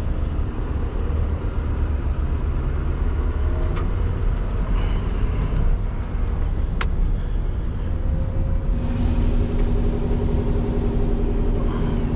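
2016 Scania R620's 16-litre V8 diesel running as the truck drives along, a steady low rumble. About nine seconds in, a steadier humming engine note and more hiss come in, with a few scattered clicks before that.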